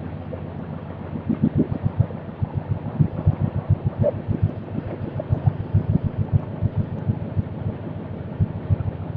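Express train running along the rails: a steady rumble with quick, irregular low knocks and rattles, several a second.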